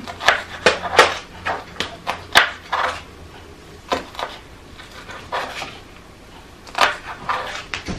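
Irregular knocks and clinks of kitchen prep work: utensils and dishes handled on a counter, several quick taps in the first few seconds and scattered ones after.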